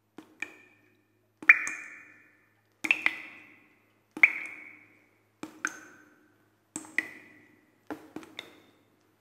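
A struck percussion instrument with a hard, ringing tone played in a slow, even pulse: mostly pairs of quick strikes about every second and a third, each dying away within about a second.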